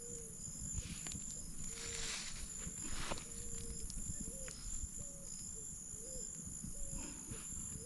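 Outdoor night-time-style insect chorus: a steady high-pitched insect drone, with short low calls from some animal repeating about once a second and a few brief rustles of handling or movement.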